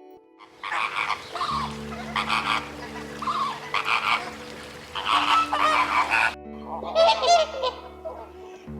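A flock of flamingos calling, many loud goose-like honks overlapping in a dense chorus.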